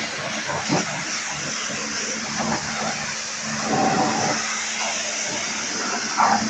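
Steady rushing machine noise with a faint low hum underneath, swelling and easing a little now and then.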